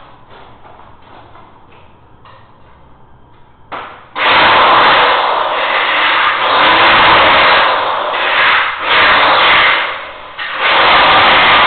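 A power tool starts about four seconds in and runs loudly in long stretches, with two short breaks, after a few seconds of faint ticking.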